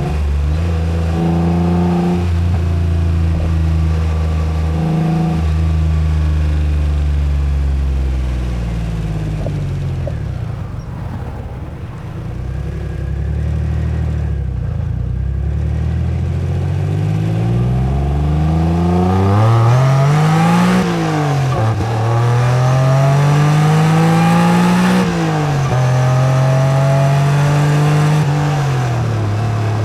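Acura NSX V6 engine heard on the move: steady cruising, then easing off and going quieter, then pulling hard with the pitch climbing and dropping back at two upshifts in the second half.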